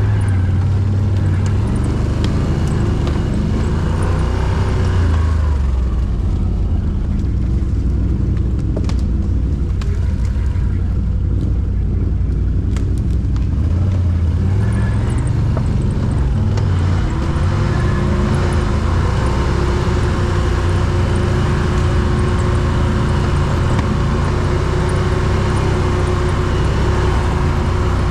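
A quad bike's engine running continuously under load, its note shifting in the first half. About two-thirds of the way in, a steady whine sets in and holds.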